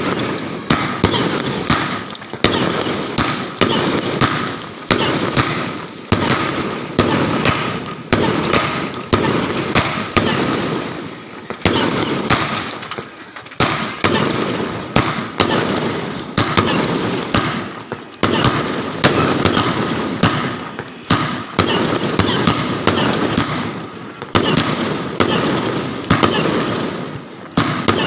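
Fireworks going off without a break: sharp bangs every half second to second, with crackling between them.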